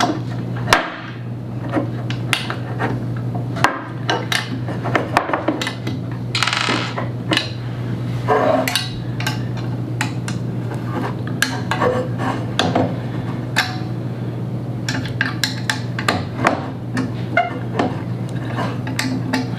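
Irregular metal clicks, taps and clinks of an Allen wrench working the screws that lock VESA plates onto steel monitor arms, over a steady low hum.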